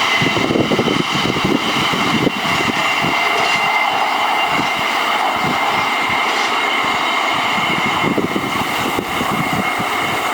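A train passing close by: its wheels rumble and knock over the rails, and a steady high squeal runs underneath, typical of wheel flanges grinding through a curve.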